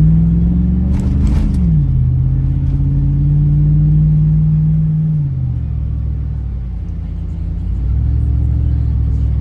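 Car engine and road rumble heard from inside the cabin: the engine note rises as the car accelerates, drops sharply at an upshift about a second and a half in, then holds steady while cruising. About five seconds in the note falls away as the car eases off, and it picks up again near the end.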